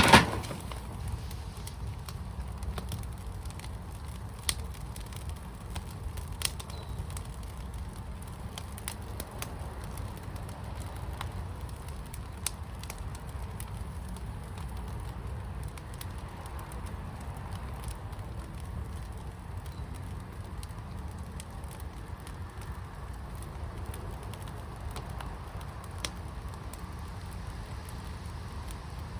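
Firepit fire burning with a steady low rumble and scattered sharp crackles and pops. A loud pop right at the start is the loudest sound.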